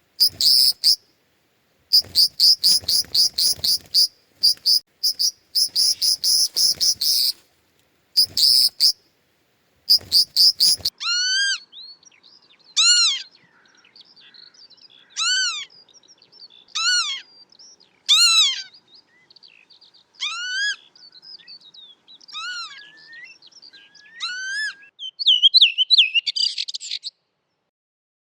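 Birds calling: first a high, rapid buzzy trill given in bursts, then a different series of separate clear calls, each rising and falling in pitch, one every second or two, ending in a quick fluttering phrase.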